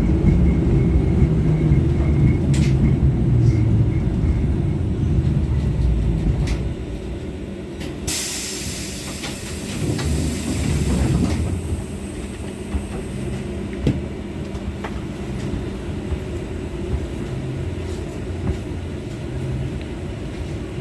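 LVS-86K tram heard from inside the passenger cabin, its running rumble dying away over the first six to eight seconds as it comes to a stand at a stop. About eight seconds in, a loud hiss lasts some five seconds. After that a quieter steady hum goes on, with a few scattered clicks.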